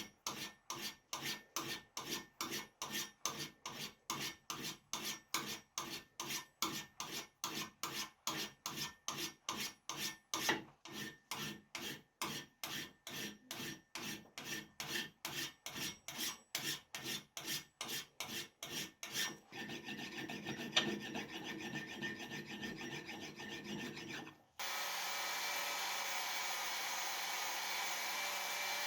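Hand filing or rasping in regular back-and-forth strokes, about two a second, on an old anvil under restoration. It turns into a denser continuous rubbing, then near the end cuts suddenly to the steady hum of an electric motor.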